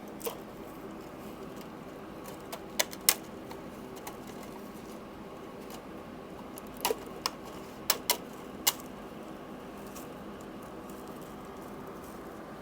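Scattered sharp metal clinks and taps, about eight in all and bunched in two clusters, as tools and engine parts are handled during an outboard teardown. A steady low hum runs underneath.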